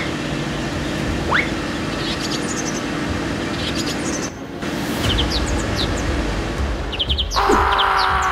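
Birds chirping: short, scattered high chirps over a steady background hiss. The sound dips briefly a little past the middle, and a steady held tone comes in near the end.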